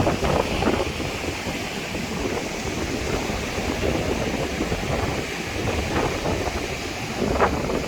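Strong wind gusting, buffeting the microphone with a rushing noise and a fluttering low rumble.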